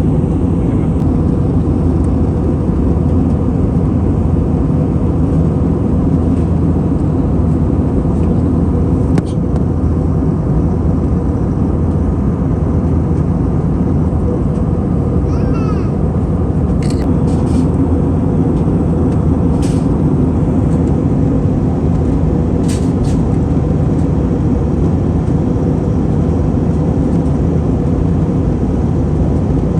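Steady low cabin roar of an Airbus A320neo in cruise: engine and airflow noise heard from inside the passenger cabin. A few faint light clicks come through now and then.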